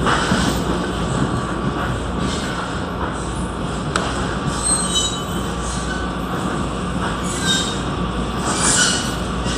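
Train running on the rails with a steady rumble and brief high-pitched wheel squeals about five seconds in and twice more near the end.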